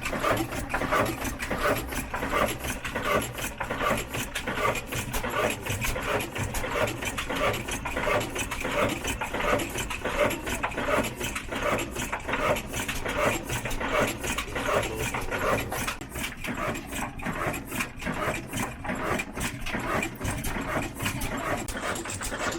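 Old black diesel engine and its flour-mill machinery running with a fast, even mechanical clatter.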